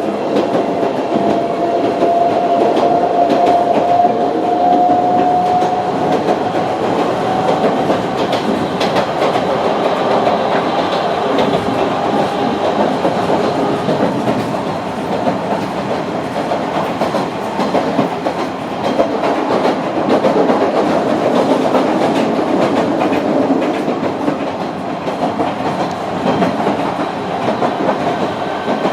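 Narrow-gauge Sangi Railway Hokusei Line train running, heard from inside a passenger car: the steady rumble and clatter of wheels on the rails. A thin whine rises slowly in pitch over the first several seconds.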